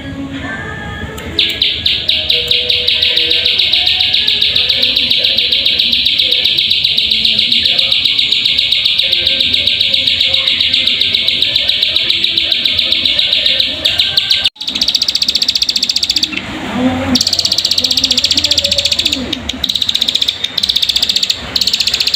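Ciblek sawah (paddy-field prinia) song: a loud, fast, high trill repeated without pause, cutting off suddenly about two thirds of the way in and starting again a second or two later. It is a lure recording meant to set kept birds singing.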